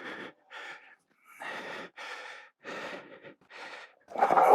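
A man breathing hard, a run of short loud breaths a couple of times a second, with a much louder burst of noise about four seconds in.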